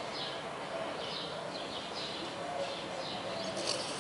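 Small birds chirping, short high chirps about twice a second, over steady background noise.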